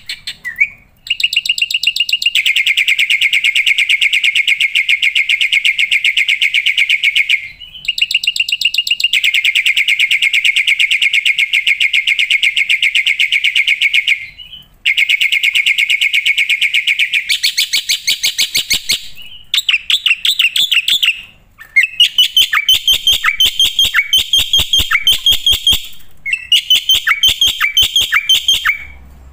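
Black-winged starling (jalak putih) singing loudly and continuously. It gives three long, fast rattling phrases with short breaks between them, then from about twenty seconds in a run of quick repeated notes that drop in pitch.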